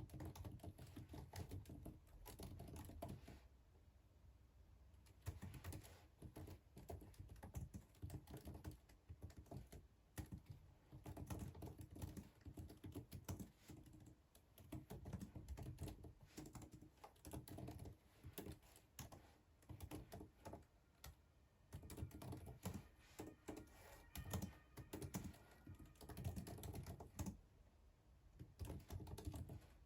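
Typing on a computer keyboard: quiet runs of key clicks broken by short pauses every several seconds.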